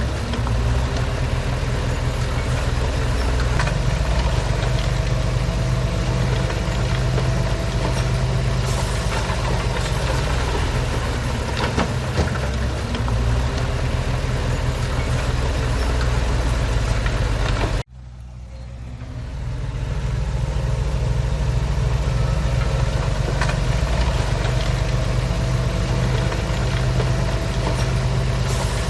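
Heavy construction machine's diesel engine running steadily. About eighteen seconds in it cuts out suddenly, then fades back up over a couple of seconds.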